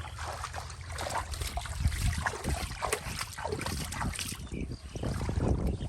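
Hands splashing and sloshing in shallow muddy water, with a run of irregular splashes and a steady low rumble underneath.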